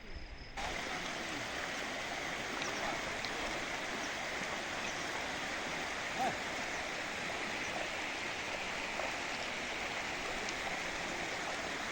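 Steady rush of flowing water, a stream or cascade, which starts abruptly about half a second in and then holds an even level.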